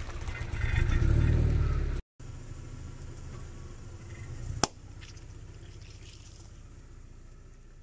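Car engine running with a steady low rumble, loud for the first two seconds, then cut off briefly and running on more quietly. One sharp crack comes about halfway through.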